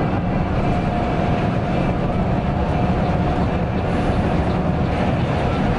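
Mercedes-Benz OC 500 RF 2542 coach under way, a steady low engine and road rumble with a thin steady whine that fades about two-thirds of the way through.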